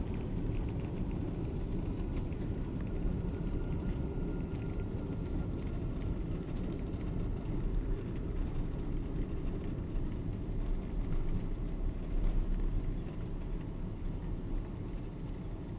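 Steady low rumble of a Boeing airliner heard from inside the passenger cabin, with a few faint clicks and rattles.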